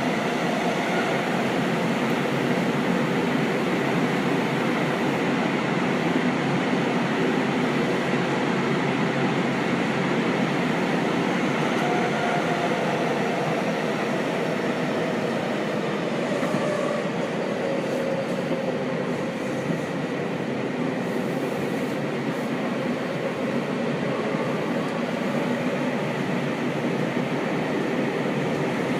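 Seibu 6000 series electric train with a Hitachi GTO VVVF inverter, running at speed through an underground tunnel and heard from inside the carriage: steady wheel and running noise with faint motor tones drifting slowly in pitch.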